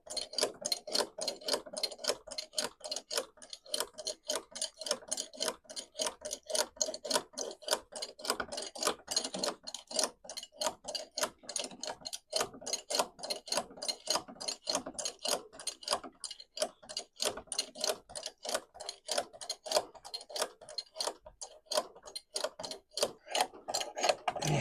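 Car jack being cranked up under a car, its mechanism clicking steadily about three to four times a second.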